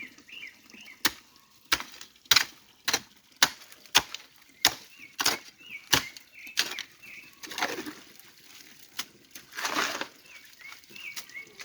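Hand work clearing a stream: about ten sharp strikes at an even pace, a little under two a second, then three longer swishing sounds in the second half. Small birds chirp faintly in short calls throughout.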